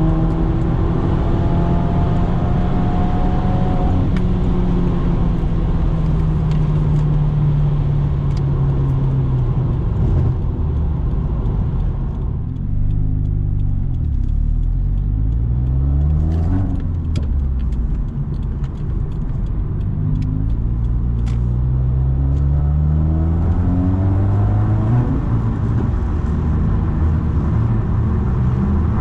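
Subaru WRX's turbocharged flat-four running loud through a muffler- and resonator-deleted exhaust while driving. The engine note falls away for several seconds, dips and changes pitch around the middle, then climbs steadily again and holds. A scatter of sharp cracks comes around the middle, as the revs come back up.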